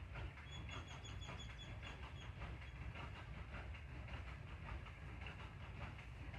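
Water running and splashing onto plant leaves: a steady rush with many small patters of drops. About half a second in, a bird gives a quick run of high chirps, about five a second, for roughly two seconds.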